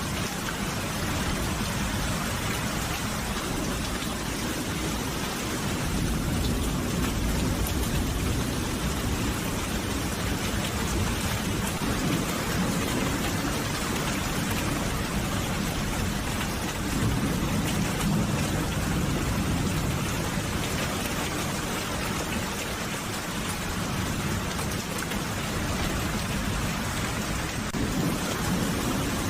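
Steady rain falling, an even hiss, with low rumbles of distant thunder swelling up twice, about a fifth of the way in and again a little past the middle.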